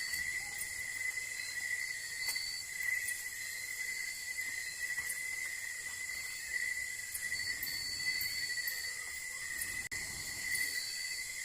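Night insect chorus of crickets and other insects: a steady high trill with a second, higher buzz that starts and stops several times, plus faint scattered clicks.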